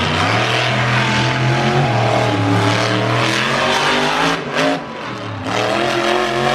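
Monster truck engine running at high revs, then the throttle is backed off and blipped again, with rising and falling sweeps in the second half.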